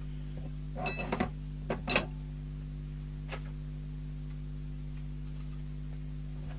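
A few light metallic clicks and clatters about one and two seconds in, then a single faint click: loose metal mounting hardware (wing nuts, thumb screws, bracket pieces) being handled on the bench. A steady electrical hum lies under it throughout.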